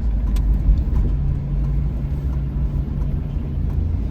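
Steady low rumble of a car on the move, heard from inside: engine and road noise with a constant low hum.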